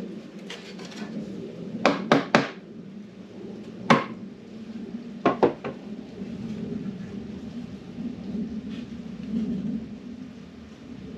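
Sharp knocks of hard objects struck or set down: three in quick succession about two seconds in, one about four seconds in and a pair about five and a half seconds in, over a steady low hum.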